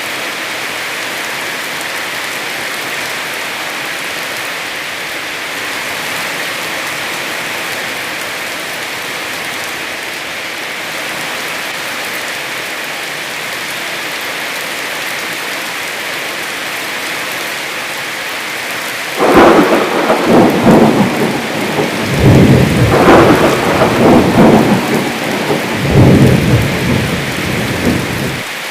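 Heavy rain falling steadily, then about two-thirds of the way in a loud roll of thunder rumbles in three surges and cuts off suddenly just before the end.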